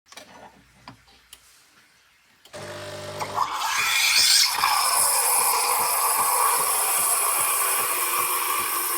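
Krups Sensation C50 bean-to-cup coffee machine running: a few faint clicks, then a short hum about two and a half seconds in, followed by a louder, steady whirring noise with a faint regular pulse underneath.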